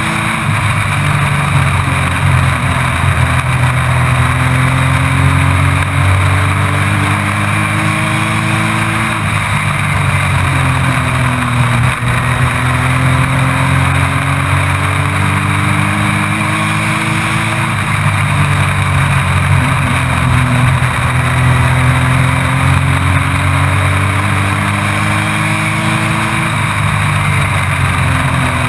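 Race truck engine heard from on board at full racing load: its pitch climbs steadily down each straight, then drops sharply as the driver lifts for the turn, repeating about every eight to nine seconds. Continuous wind and tyre hiss lie under it.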